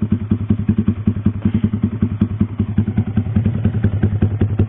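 Yamaha R15 V3's single-cylinder engine idling through a WRX GP6 MP1 aftermarket silencer with its baffle in. The exhaust gives a steady, even putter of about ten beats a second, with no revving.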